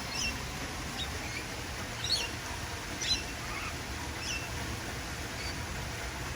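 Caged parrots chirping: short, high chirps, about one a second, over a steady low background noise.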